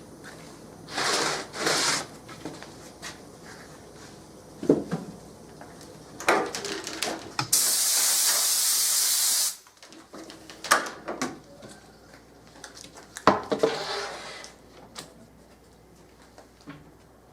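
Short bursts of hissing, the longest and loudest lasting about two seconds near the middle, among scattered knocks and clicks of handling.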